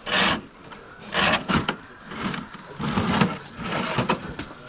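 RC rock crawler truck working over rock in several short bursts of scraping and grinding as its tires and chassis scrabble on the stone.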